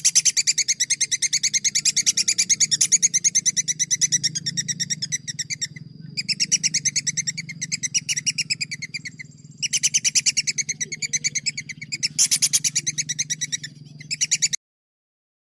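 A songbird sings a long, very fast rolling trill of rapidly repeated high notes, in several bursts with short breaks, over a steady low hum. The sound cuts off abruptly near the end.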